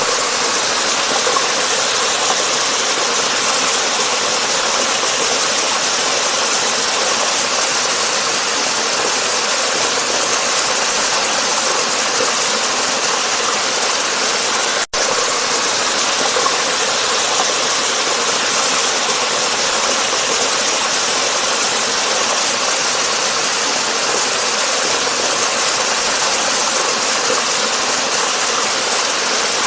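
Waterfall rushing in a steady, dense roar of falling water, with a momentary cut in the sound about halfway through.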